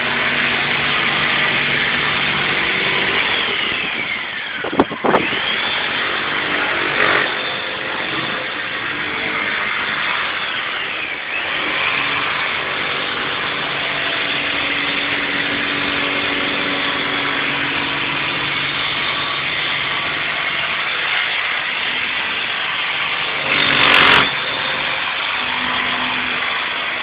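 Car engine running throughout, its pitch rising and falling several times as it is revved. There is a sharp click about five seconds in and a short rushing burst near the end.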